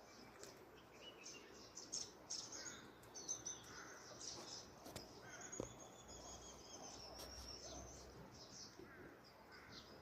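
Several wild birds calling together: a busy mix of short high chirps and thin, high whistled notes, some held for a second or more, with a few louder calls standing out.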